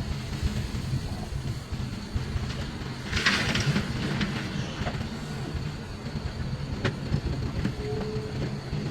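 Hitachi excavator's diesel engine running steadily with a low rumble, with a brief louder noisy burst about three seconds in and a sharp knock near the end.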